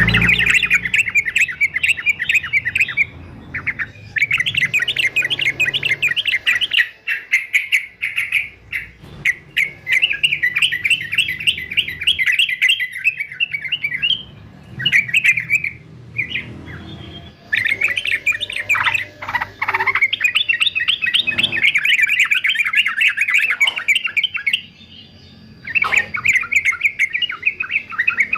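Male yellow-vented bulbul singing a rapid, bubbly chattering song in long bursts of several seconds, with brief pauses between them.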